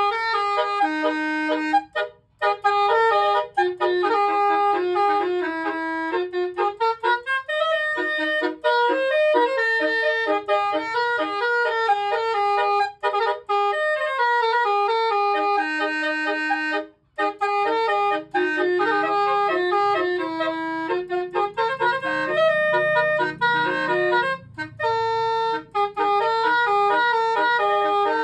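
Basuri multi-tone melody horn on a car playing a tune in stepped, reedy notes, with a couple of brief breaks.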